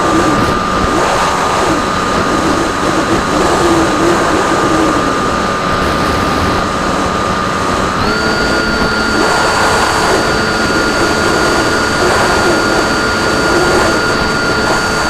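RC plane's motor and propeller whining steadily over rushing air, the pitch stepping up abruptly about eight seconds in as the throttle is raised.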